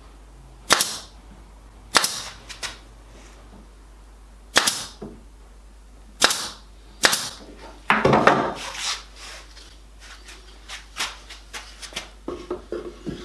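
Pin nailer firing pins into the drawer joints: about six sharp shots a second or more apart, followed by lighter clicks and knocks near the end.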